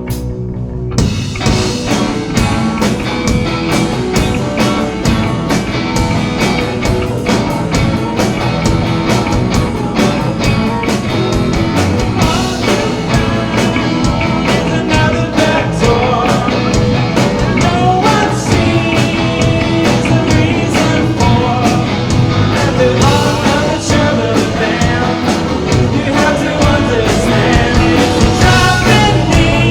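Live rock band playing a song: after a sparse guitar intro, drums and the full band come in about a second in and carry a steady rock beat, with a singer.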